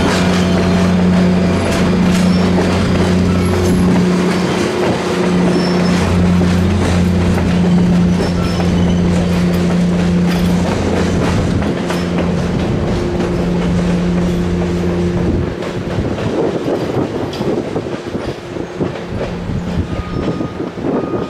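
Tail end of a passenger train rolling past, wheels clicking over rail joints with some flange squeal, over a steady low drone. About two-thirds of the way in the drone stops, leaving a rougher rumble that fades as the train moves away.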